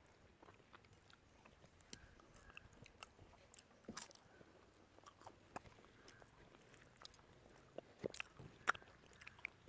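Faint, scattered clicks and smacks of people eating rice with their hands: chewing, with fingers mixing rice on the plates, a few more clicks near the end.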